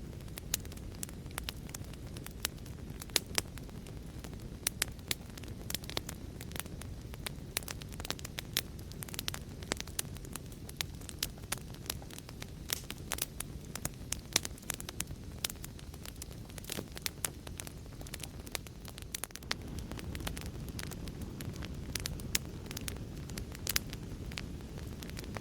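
Wood fire burning: a steady low rumble with many sharp, irregular crackles and pops.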